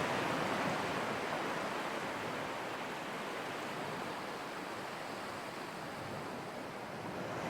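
Ocean waves: a soft, steady wash of surf that slowly eases off and swells a little again near the end.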